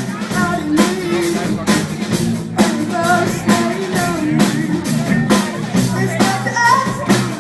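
Rock band playing live: drum kit keeping a steady beat of about two hits a second under guitar and a sung vocal line.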